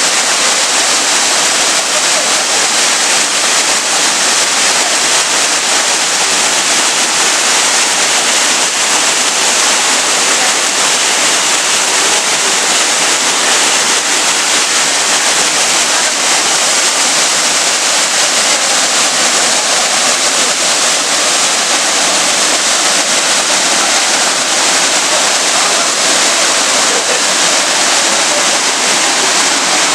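Water of a small waterfall falling and splashing, a steady loud rushing hiss that does not change.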